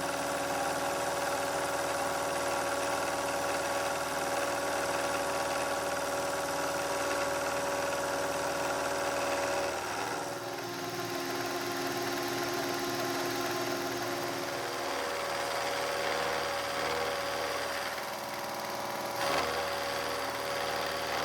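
A metal-cutting machine tool running steadily with a constant motor whine. Its sound changes about ten seconds in and again near the end, as the machine's speed or cutting load shifts.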